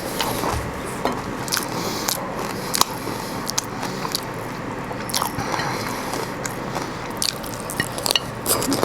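Close-up eating of crispy fried chicken: biting and chewing, with short crunches and clicks scattered irregularly throughout.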